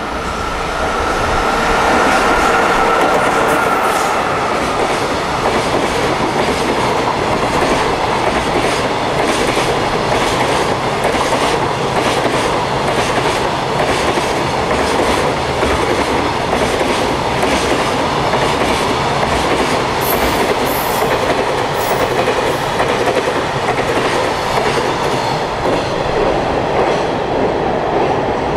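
A container freight train passing at speed: a continuous loud rumble of the wagons, with the clickety-clack of their wheels over the rail joints. A steady two-tone whine sounds over the first few seconds and then fades.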